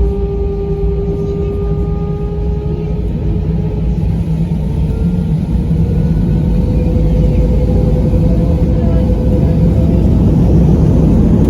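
Airbus A320 jet engines heard inside the passenger cabin: a heavy rumble with a steady whine that rises slightly in pitch as the sound grows louder, the engines spooling up.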